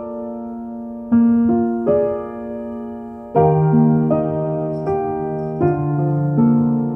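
Background music of a soft piano playing slow held chords, a new chord or note struck about every second. Lower notes join about three and a half seconds in.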